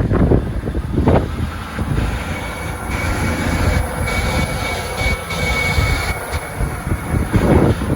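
A train running through the station with a low rumble, and a steady high whine from its engine or motors that comes in a couple of seconds in and fades out after about six.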